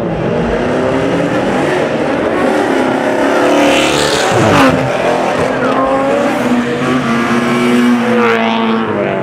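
High-performance car engine revving hard as it pulls away, its pitch climbing and dropping through the revs, loudest about four to five seconds in, with another rising rev near the end.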